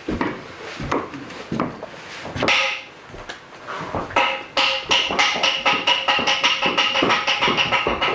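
Kabuki stage accompaniment music: spaced percussion strokes, then about four seconds in a held high pitched tone joins over quicker strokes.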